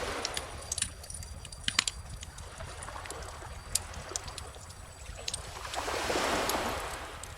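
Bonfire crackling with scattered sharp pops over the wash of calm ocean waves. One wave swells and recedes about six seconds in.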